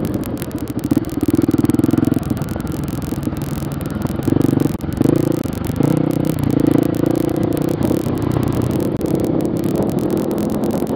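Enduro motorcycle engine heard from on the bike, revving up and down in repeated bursts of throttle while riding a rough dirt trail, with clattering from the bumpy ground.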